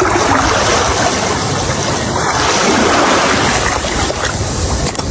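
Loud, steady rushing noise of wind and sea waves.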